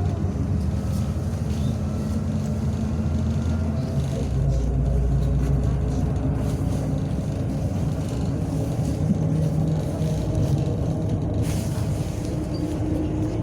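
MAZ-105 city bus heard from inside while driving: steady engine and road rumble, the engine note dropping lower about four seconds in. A short hiss comes near the end.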